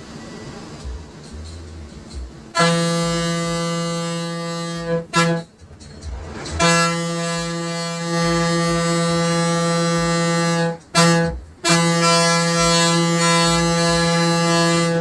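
Bus horn sounding on one steady pitch in three long blasts, with two short toots between them, over the low running noise of the bus.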